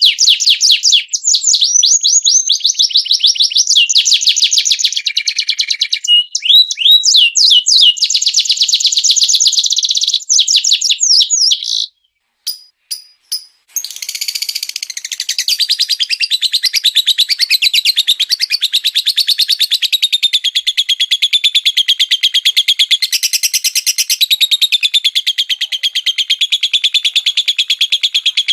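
Small songbirds giving rapid-fire 'tembakan' calls: fast runs of repeated sharp chirps. The calls break off about twelve seconds in, with a few clicks in a short gap, and a different fast, steady trill starts about two seconds later.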